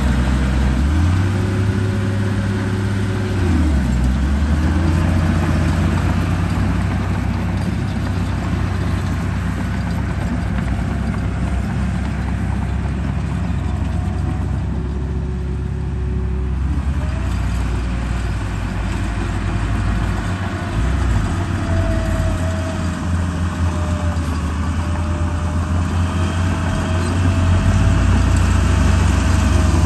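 Vehicle engine running steadily with a low rumble, its pitch rising, holding and dropping back a couple of times as it revs.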